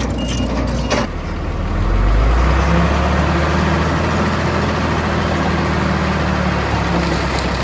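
Heavy diesel earthmoving machine's engine running, swelling under load about two seconds in and then holding a steady low drone. A reversing alarm beeps twice in the first second.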